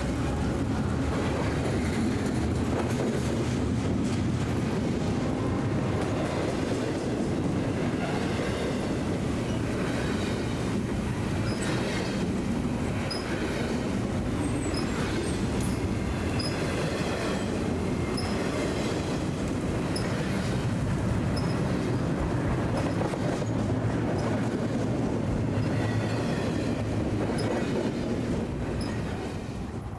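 BNSF freight train rolling past: a steady rumble of steel wheels on rail, with clicking over the rail joints and brief high wheel squeals now and then.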